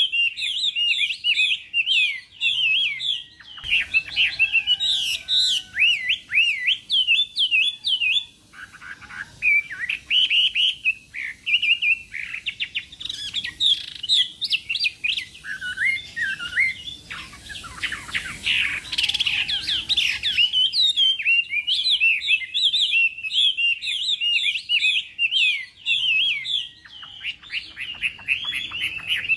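Chinese hwamei (melodious laughing thrush) singing a dense, nearly unbroken run of rapid, varied whistled phrases, with a rougher, noisier stretch in the middle.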